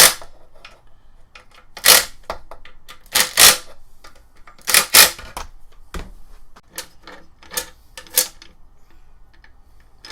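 Sharp clicks and clacks of screws being tightened down on a string-trimmer attachment with a hand tool, coming irregularly, several in pairs, the last few lighter.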